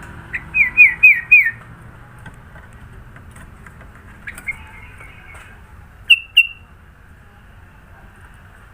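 Kutilang (sooty-headed bulbul) singing: a quick run of four falling whistled notes, then after a pause a softer phrase, and two sharp, loud notes about six seconds in.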